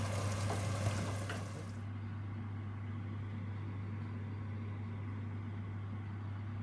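Chicken sizzling in a frying pan on a gas burner, with a few light knocks of a wooden spoon against the pan; the sizzle cuts off about two seconds in. A steady low hum runs underneath throughout.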